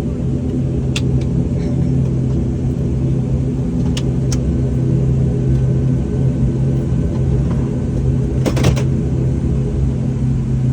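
Steady low hum of an airliner cabin on the ground before takeoff, with a few sharp clicks: one about a second in, two near four seconds, and a quick cluster near the end.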